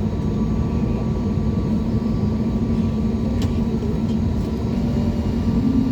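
Steady low rumble of an Airbus A321neo's jet engines running, heard from inside the passenger cabin, with a steady hum running through it and a faint click about three and a half seconds in.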